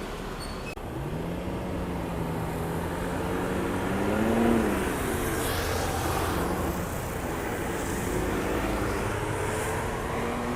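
An engine running steadily, its pitch rising and falling back about four seconds in.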